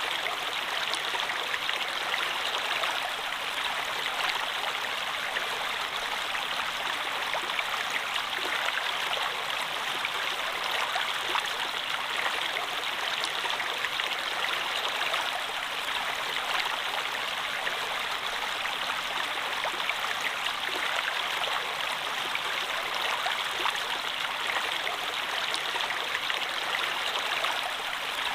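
Flowing water running steadily, an even rushing sound with faint small splashes scattered through it.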